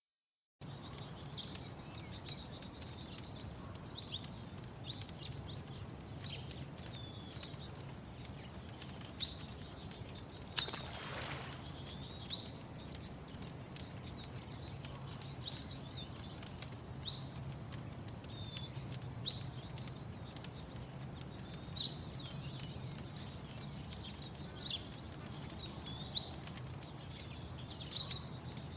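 Outdoor morning ambience: small birds chirping in short, scattered calls over a steady low hum, with one brief rushing sound about ten seconds in. The sound starts after half a second of silence.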